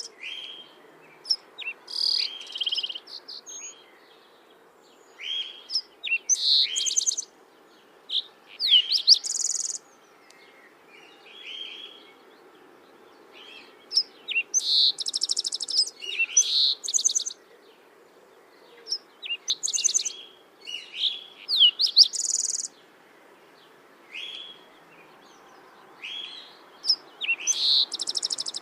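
Songbirds singing: short chirps and rapid trilled phrases come every second or few, with some high whistled notes. Under them runs a faint steady background noise.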